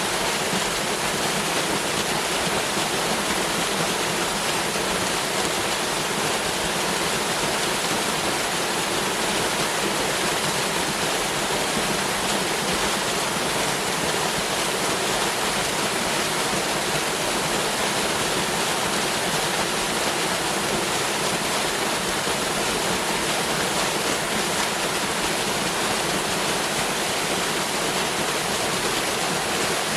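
Waterfall, water pouring and splashing in a steady, unchanging rush.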